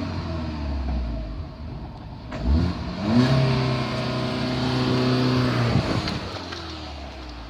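2013 VW Polo 6R's 1.4-litre four-cylinder petrol engine idling, then revved up about two and a half seconds in. It holds steady at the raised speed for a few seconds, then falls back to idle near the end.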